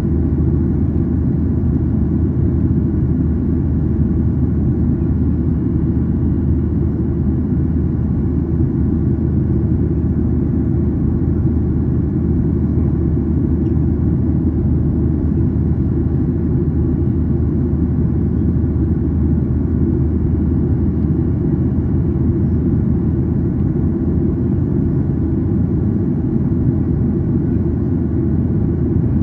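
Cabin noise of a Boeing 737-800 climbing out after takeoff, heard from inside the cabin: its CFM56-7B turbofan engines and the airflow give a steady, deep rumble that does not change.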